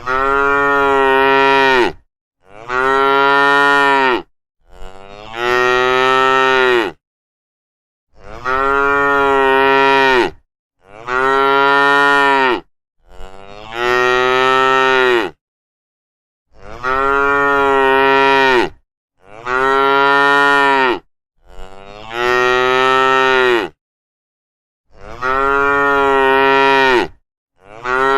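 Long, loud moo calls, each about two seconds, rising at the start and then held on one pitch. They come in regular sets of three with short pauses between, three full sets and the start of a fourth near the end.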